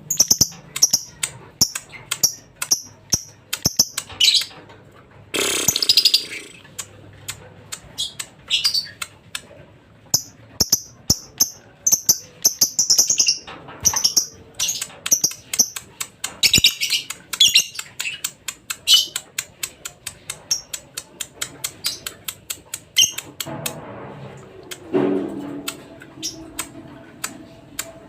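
Lovebird singing: a fast, uneven run of short high chirps, broken by a few longer, harsher chattering runs.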